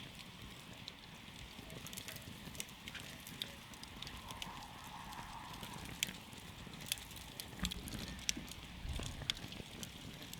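Wood campfire crackling, with irregular sharp pops and snaps over a steady low hiss and rumble of the burning fire.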